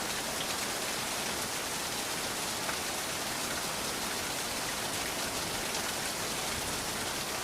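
Steady heavy rain falling and pattering on surfaces, an even hiss with faint scattered drop ticks.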